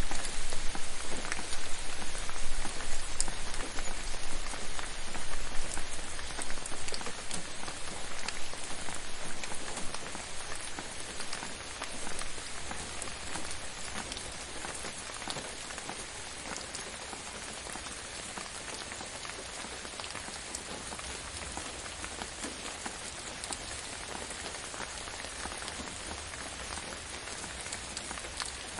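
Steady rain falling on a surface, a dense even hiss with many individual drop ticks. It eases off gradually about a third of the way in and settles at a lower, gentler level.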